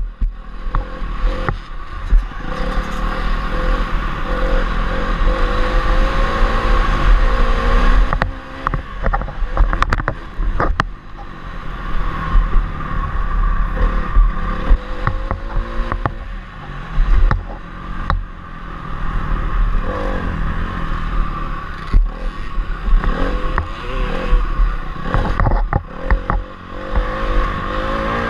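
Honda CRF250R's single-cylinder four-stroke engine revving up and falling back again and again as the rider works the throttle and gears, with a few brief drops where the throttle is shut. Wind rumbles on the bike-mounted microphone, and sharp knocks and clatter come from the bike over bumps and landings.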